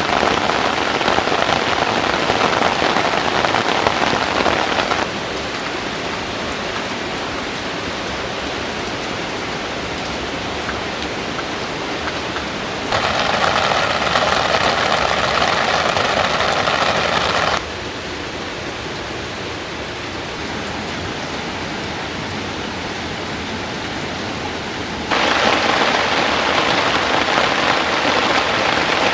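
Steady rain falling, an even hiss that jumps abruptly between louder and quieter about every five to eight seconds.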